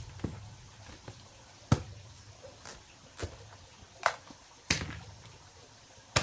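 A series of about six sharp knocks at uneven intervals, roughly a second apart.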